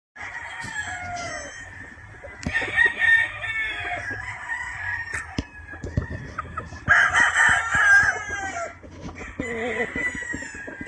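Several roosters crowing in turn, with the loudest crows about two and a half and seven seconds in.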